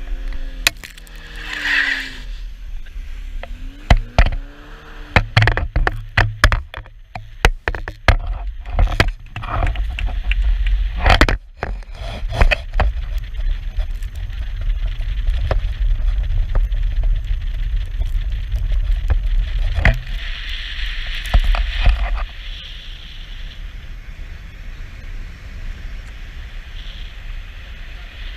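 Car driving through deep snow: the engine's pitch rises and falls in the first few seconds, then a run of knocks and thumps as it pushes through, then steady tyre and road noise that eases off after about twenty seconds.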